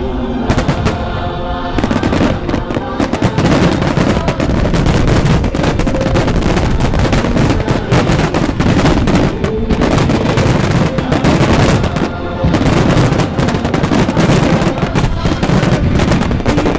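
Wide starmine fireworks barrage: a rapid, dense string of shell bursts and bangs that starts about half a second in, with a short lull about twelve seconds in, over music played with the show.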